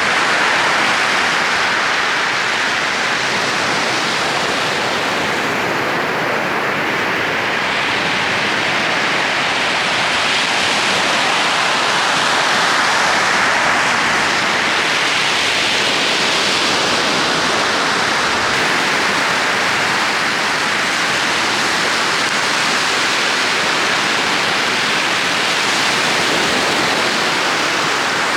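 Steady rushing wash of sea surf, swelling and easing slowly.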